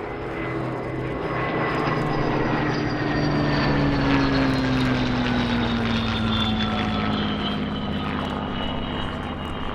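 A WW2 fighter's Rolls-Royce Merlin V12 engine making a pass overhead, its pitch falling steadily as it goes by. It is loudest about four seconds in, then fades a little.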